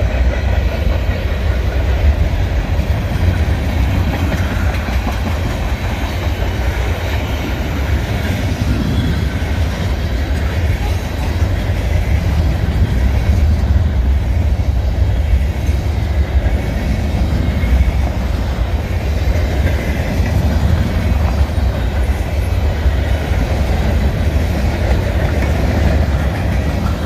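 Train rolling past at close range, a steady heavy rumble of cars on the rails with some clickety-clack of the wheels.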